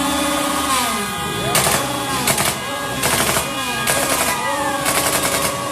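Protest noise-making: held horn-like tones give way, about a second in, to repeated short bursts of rapid cracking, roughly one a second, with sliding tones between them.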